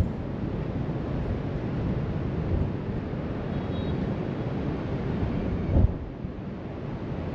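Distant surf breaking on a beach under a steady rush of wind blowing across the microphone, with one sharp gust buffet near the end.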